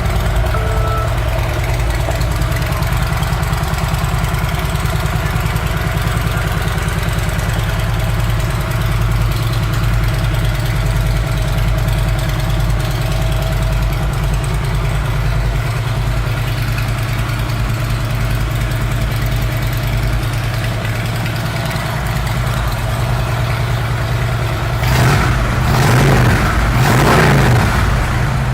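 2013 Harley-Davidson Electra Glide Ultra Limited's V-twin running through aftermarket Rinehart exhaust pipes, idling steadily, then revved a few times near the end.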